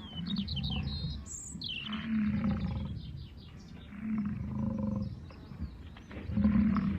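An animal's low, rough calls, four of them, each lasting about half a second to a second, with small birds chirping and twittering in the background.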